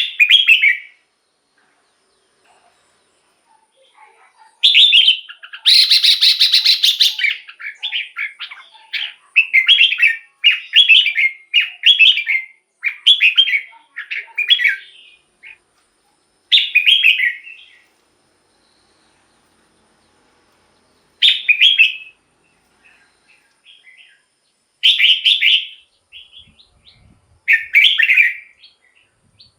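Red-whiskered bulbul singing: short, loud, chirpy song phrases repeated with pauses of a second or several seconds between them. There is a longer, noisier burst about six seconds in and a quick run of phrases through the middle.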